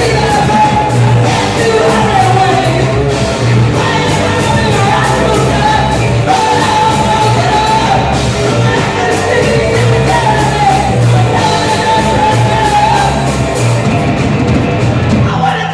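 Rock band playing, with a lead vocal sung over guitars, bass and drums.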